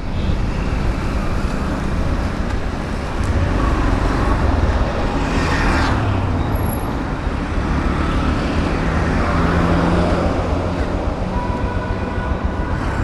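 Road traffic noise: a steady low rumble of passing vehicles, with one vehicle passing close about five to six seconds in.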